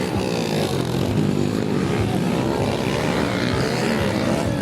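Motorcycle engines revving and easing off, their pitches rising and falling and overlapping steadily.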